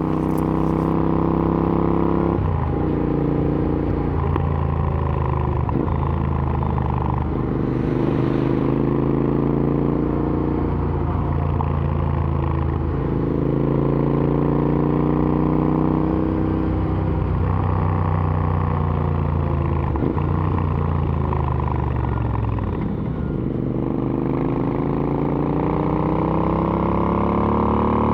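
Royal Enfield Interceptor 650's parallel-twin engine, heard through AEW aftermarket exhausts, pulling hard on the move. The engine note climbs through each gear and drops sharply at each of several upshifts. About three-quarters of the way through, the revs fall away as the bike slows, then climb again.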